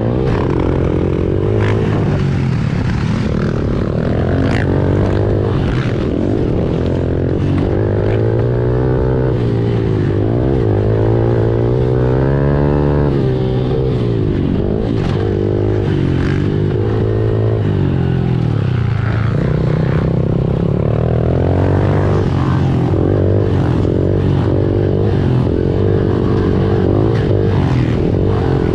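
Honda CRF110 pit bike's small single-cylinder four-stroke engine riding laps, revving up and dropping back again and again as the throttle opens and closes, with scattered sharp clicks over it.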